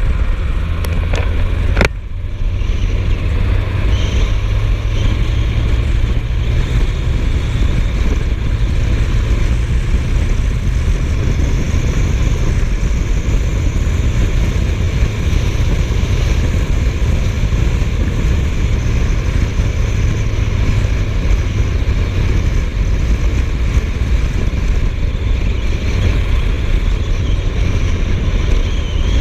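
Suzuki GSF1250S Bandit's inline-four running steadily at cruising speed under heavy wind rush on the microphone, with a brief click about two seconds in.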